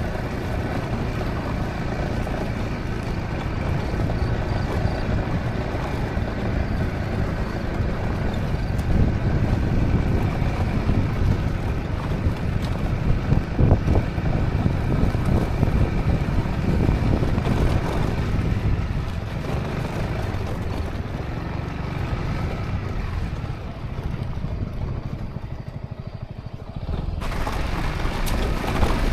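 Honda ADV350 scooter's single-cylinder engine running on the move, mixed with wind buffeting the microphone and road noise. The sound eases off for a few seconds late on and picks up again suddenly near the end.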